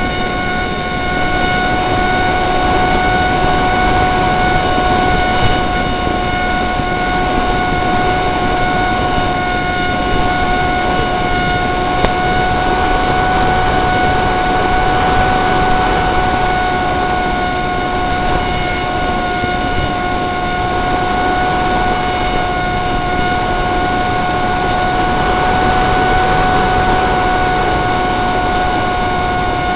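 Electric motor and propeller of a Dynam Hawksky RC plane running with a steady whine, its pitch holding level throughout. Heavy wind buffeting on the microphone underneath.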